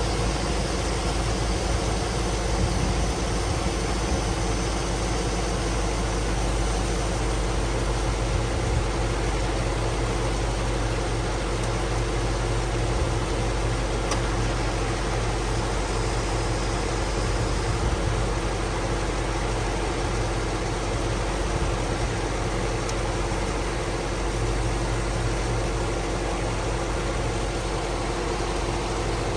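A 2005 Cadillac Escalade's 6.0-liter Vortec V8 running steadily at idle, its hum unchanging throughout.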